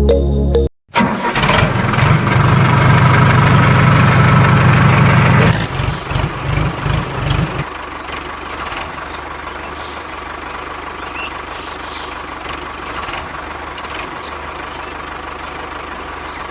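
Tractor engine starting and running loud for about five seconds, stuttering unevenly for a couple of seconds, then settling into a quieter steady idle.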